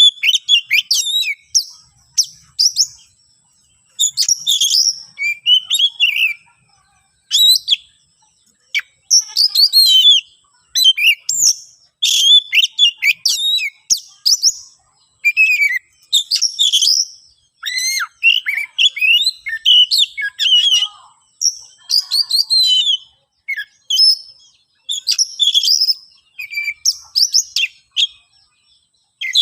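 Oriental magpie-robin (kacer) singing in a worked-up, fighting mood: loud, quick phrases of varied whistles and chirps, broken by short pauses. It is the agitated song a kacer gives to challenge a rival.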